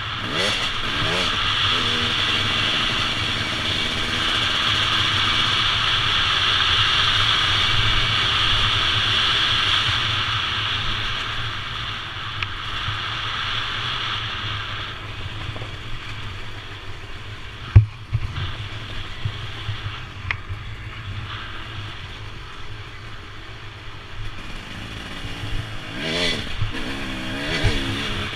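Motorcycle engine revving up and down while riding, with heavy rushing noise over the first half. A single sharp knock comes about two-thirds of the way through, then smaller clattering, and the revs climb again near the end.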